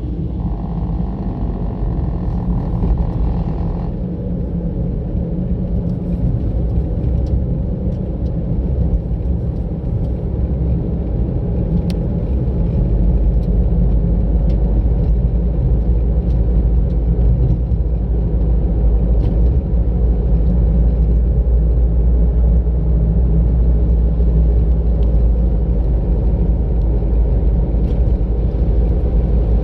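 Car driving along a road: a steady low rumble of engine and tyres, with a higher hum in the first few seconds, getting a little louder from about halfway.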